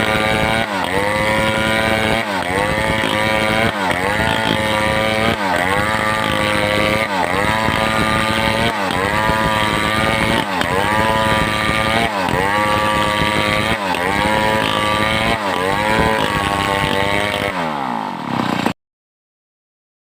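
Home-assembled two-stroke chainsaw running at high revs under load while cutting timber, its engine note dipping and recovering about every second and a half. Near the end the engine note falls away, then the sound cuts off abruptly.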